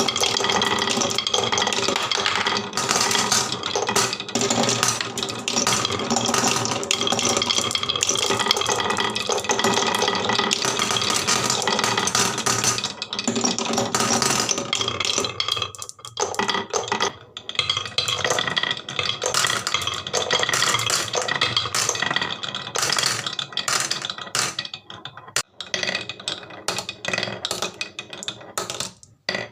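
Many glass marbles rolling and clattering down a HABA wooden marble run, a dense continuous rattle of clicks and knocks that thins into separate clicks near the end.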